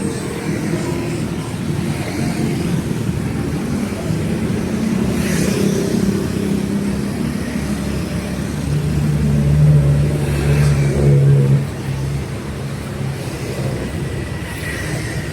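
Street traffic: motor vehicle engines running close by. It grows louder about two-thirds of the way through as a vehicle passes, then drops off suddenly.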